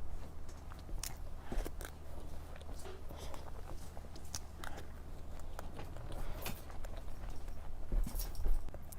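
A person chewing and eating dessert close to the microphone, with many small, irregular mouth clicks throughout, over a low steady hum.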